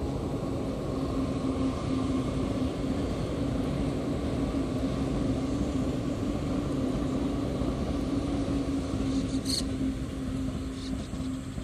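JR East E531 series electric commuter train passing, a steady rumble of wheels on rails with a steady hum running through it. A brief high-pitched squeak comes about nine and a half seconds in.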